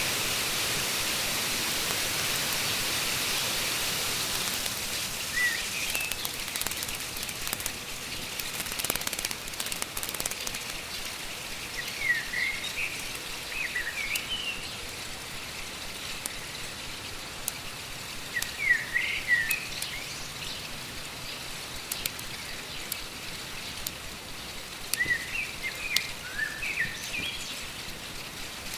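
Fast-flowing stream rushing with a steady hiss, louder in the first few seconds. Birds chirp in short groups several times, the first about twelve seconds in, and there are a few sharp clicks.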